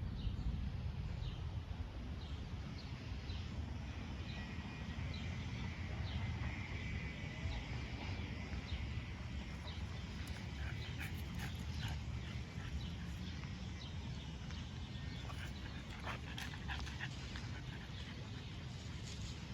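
A dog whining, with a thin high whine for a few seconds near the start, over a steady low rumble of wind or handling noise on the microphone.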